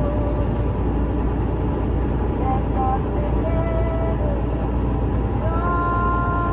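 Steady low road and engine rumble inside a truck cab at highway speed, with faint held musical notes from the radio drifting over it.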